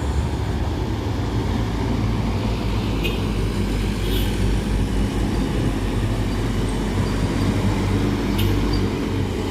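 Heavy trucks' diesel engines running under load as they climb a steep grade: a steady, low rumble.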